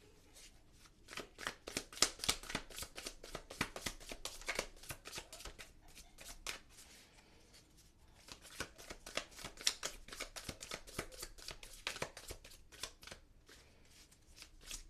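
A tarot deck being shuffled by hand: dense runs of quick card clicks and flutters in two bouts, with a short pause about halfway through.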